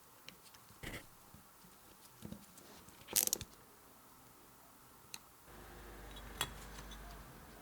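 Scattered clicks and taps of small hard parts being handled, the loudest a short cluster about three seconds in. A faint low steady hum starts about five and a half seconds in, with one more click over it.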